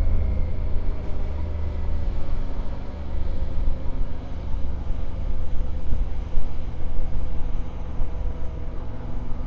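Yamaha Ténéré 700's parallel-twin engine running steadily at a low cruising speed, with low rumble on the microphone from riding.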